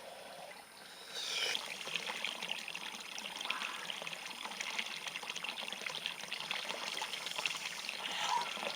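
Water trickling and splashing, a steady run of many small splashes that gets louder about a second in.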